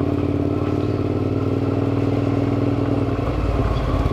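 Motorcycle engine running at a steady speed, its note shifting slightly a little over three seconds in.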